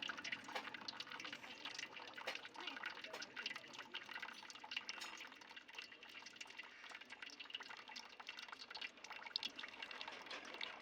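Liquid dripping and trickling, with many small irregular drips and clicks.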